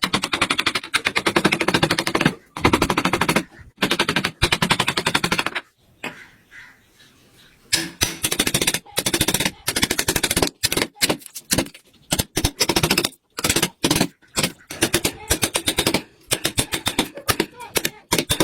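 A carving tool works the wood in bursts of fast, rattling impacts, broken by short pauses and a quiet stretch of about two seconds near six seconds in.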